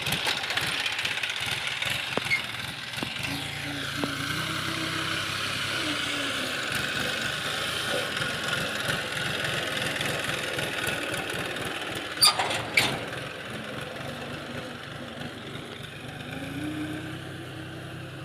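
Tractor engine running steadily, its pitch rising a few seconds in and again near the end. Two sharp knocks about half a second apart come roughly two-thirds of the way through.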